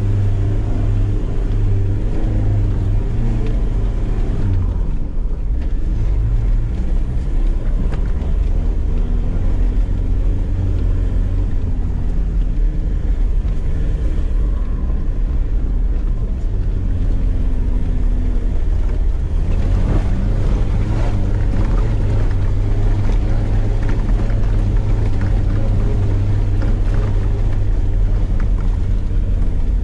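Land Rover Defender 90 engine running at low speed on a rough dirt track, heard from inside the cab as a steady low drone. From about two-thirds of the way through, rattles and knocks from the vehicle bouncing over the track come in over it.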